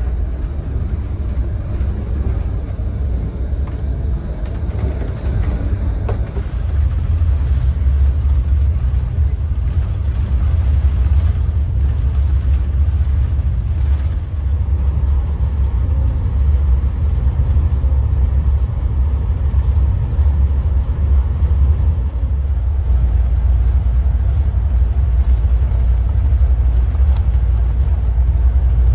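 Steady low rumble of a moving double-deck passenger train, heard from inside the car; it gets louder about six seconds in.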